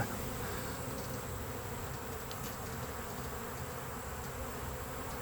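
Honey bee swarm buzzing in a steady, even hum.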